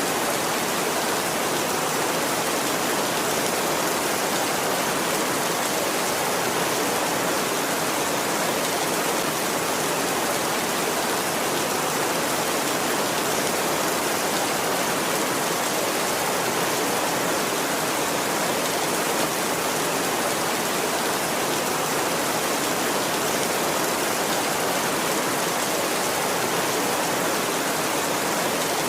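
Heavy rain falling on a tin roof, a dense, even hiss that holds steady throughout.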